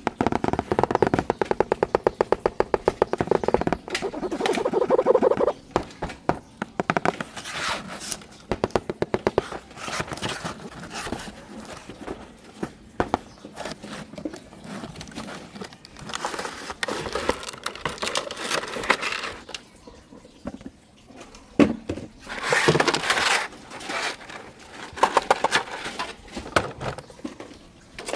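A battery-powered toy's small motor and plastic gears running with a fast, even clicking for the first five seconds or so, then irregular plastic scraping and knocking as the toy is handled.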